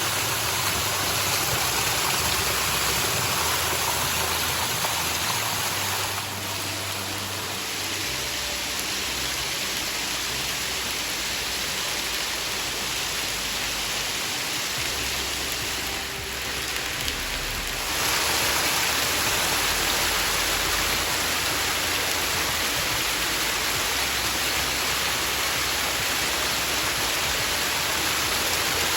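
Water of a mountain spring pouring and splashing in a steady rush, dropping a little in level about six seconds in and louder again from about eighteen seconds.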